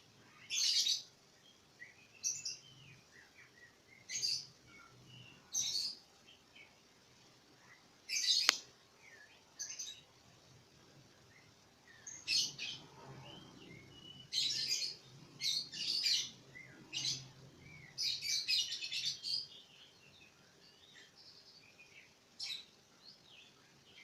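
Murai songbird giving short, high chirps in scattered bursts, some bunched in quick clusters, with quiet gaps between them. One sharp click comes about eight seconds in.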